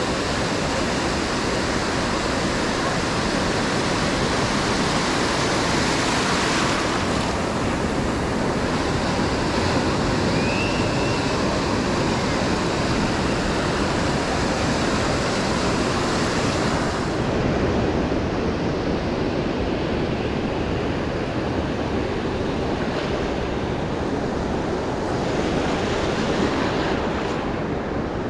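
Ocean surf washing and breaking on a sandy beach: a steady roar of waves with some wind on the microphone.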